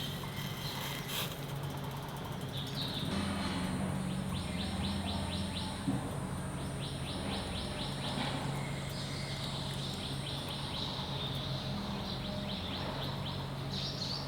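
Birds chirping in several runs of quick repeated notes, over the steady low hum of construction machinery running.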